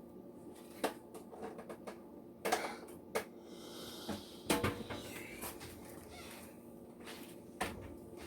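Kitchen handling sounds: a handful of sharp knocks and clacks of utensils and cookware, with a stretch of scraping and stirring in the middle, over a steady low hum.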